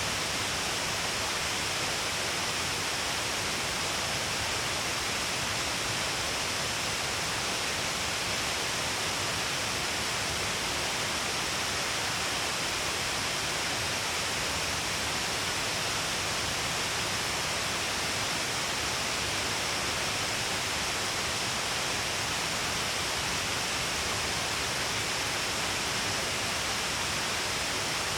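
Shiraito Falls, a broad curtain of many waterfalls along a cliff, pouring steadily in a dense, even rush of falling water and spray.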